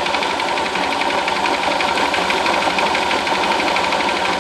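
Honda Fan 125 motorcycle's single-cylinder four-stroke engine idling steadily with a fast, even beat, its exhaust valve clearance just adjusted; the knock from the head that the owner blamed on the exhaust valve is gone and he finds it running quietly.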